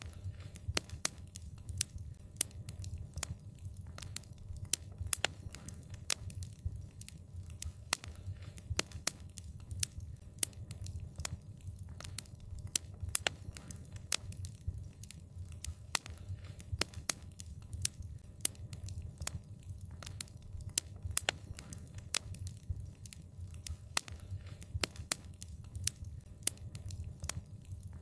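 Wood fire crackling: frequent sharp pops and snaps over a low, steady rumble.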